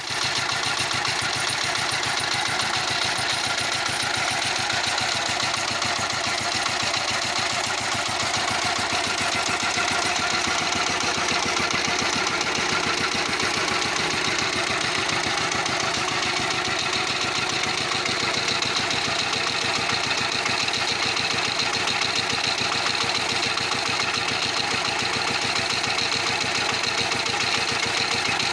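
Walk-behind tractor's engine running steadily, with a fast, even firing pulse.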